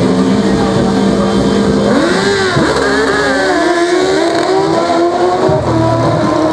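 Drag-racing motorcycle engines: a steady pitched hum for about two seconds, then revving, the pitch swooping down and up several times.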